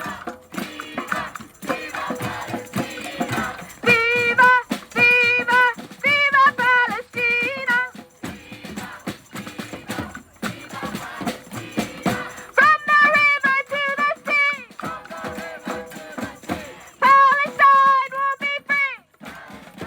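Live music: a singer's voice in long held phrases with strong vibrato, over a backing with steady percussive beats.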